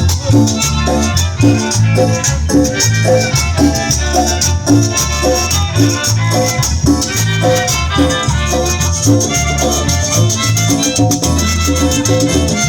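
Chanchona band playing live, an upbeat Latin dance tune with a deep bass line, melody over it and a steady beat.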